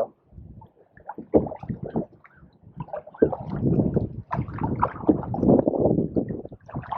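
Canoe paddle strokes through pond water, gurgling and splashing in uneven surges, with wind buffeting the microphone. It is quieter for the first second or so and stronger from about three seconds in.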